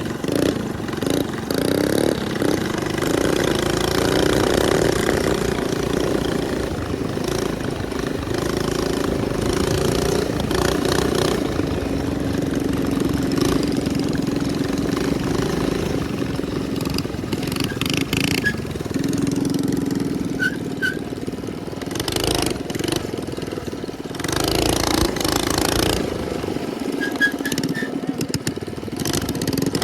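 Minibike engine running under way, its pitch rising and falling as the throttle is opened and backed off.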